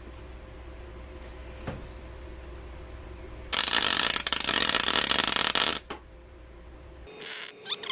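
Stick welder's arc crackling for about two seconds as a tack weld is struck on a steel patch plate, loud and dense, with a single click about a second before it.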